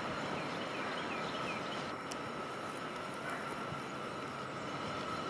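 Cable-hauled incline railway car running along its track: a steady rumble with a constant high whine.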